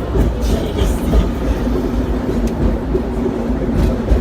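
Hong Kong double-decker electric tram running, heard from on board: a low rumble of steel wheels on the rails under a steady motor hum, with a few light clicks from the running gear.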